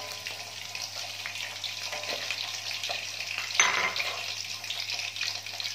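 Pieces of liver frying in hot oil in a wok: a steady sizzle, with a spatula stirring and a brief louder burst of crackling about three and a half seconds in.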